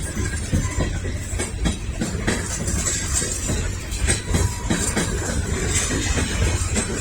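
Freight train rolling past, a steady low rumble with irregular clicks and clanks from the cars' wheels on the rail.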